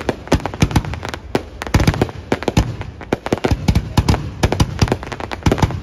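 Aerial fireworks going off in quick, irregular succession, several sharp bangs and crackles a second overlapping one another.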